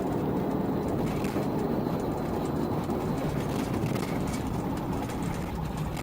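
Police patrol car at pursuit speed: a steady low rumble of engine and road noise.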